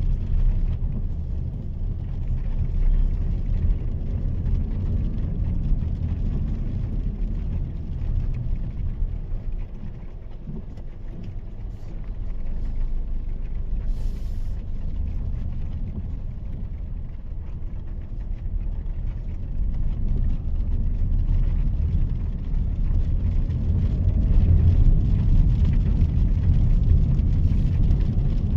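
Mahindra XUV 3XO's 1.2-litre three-cylinder turbo-petrol engine and its tyres heard from the cabin while driving: a steady low rumble that grows a little louder over the last few seconds.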